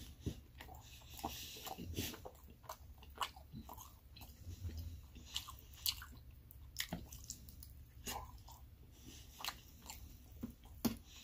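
A person chewing a mouthful of meatloaf and spinach salad with ranch, mouth close to the microphone: irregular small wet smacks and clicks.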